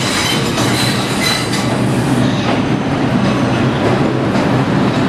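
R142 subway train rolling into the station, wheels clacking over the rails, with short high wheel squeals in the first two seconds over a steady low hum and rumble.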